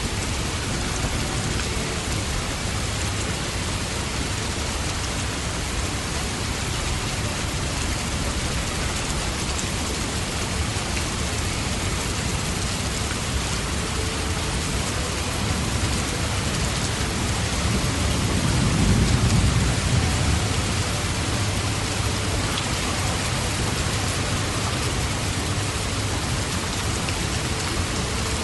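Steady, dense rainfall hissing evenly, with a low rumble of distant thunder swelling and fading about two-thirds of the way through.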